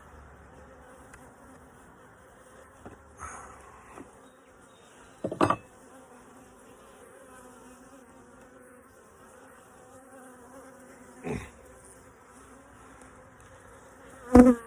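Honeybees buzzing steadily around an open hive, a low even hum. Three knocks cut through it: about five seconds in, about eleven seconds in, and a louder one near the end.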